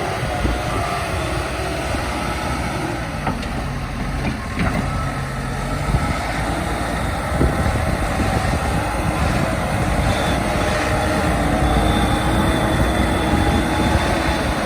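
JCB 215E backhoe loader running steadily, with a wavering whine over the engine noise and a few short knocks.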